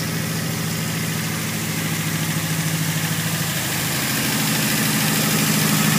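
Mazdaspeed6's turbocharged 2.3-litre four-cylinder engine idling steadily, loud, just brought back to running after repair; it picks up slightly and gets a little louder about four seconds in.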